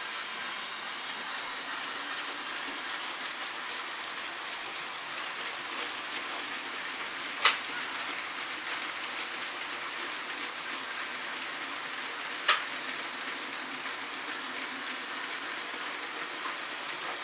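H0-scale model trains running on the layout: a steady whir of small wheels and motors on the track, with two sharp clicks about five seconds apart, near the middle of the stretch.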